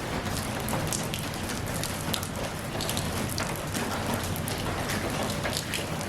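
Steady rain falling, a continuous patter with many individual drops striking a surface.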